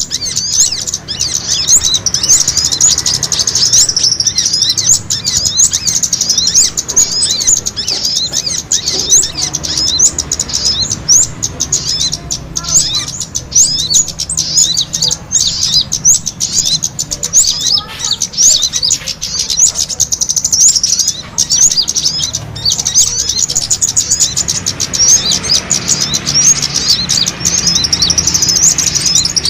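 Small songbirds chirping and twittering in a dense, rapid stream of short high chirps, the agitated calls of small birds fighting that are used as a lure to draw other birds in.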